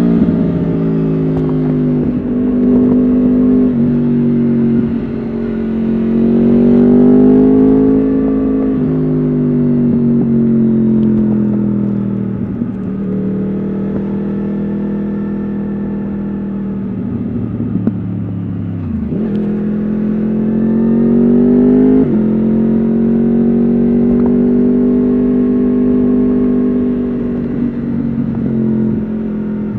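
Yamaha R1 RN22's crossplane inline-four running through an Akrapovič exhaust while riding. The engine note rises and falls in pitch with several gear changes, and the revs drop sharply about two-thirds through before it pulls again.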